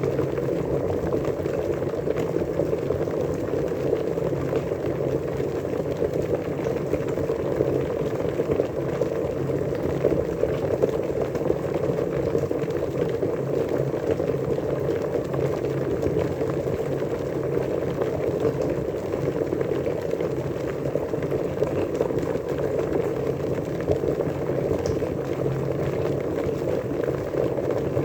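Water at a rolling boil, a dense steady bubbling and burbling that holds even throughout.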